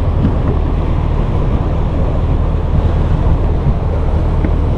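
Wind buffeting the microphone outdoors on a small boat, a steady low rumble with water noise and a constant low hum underneath.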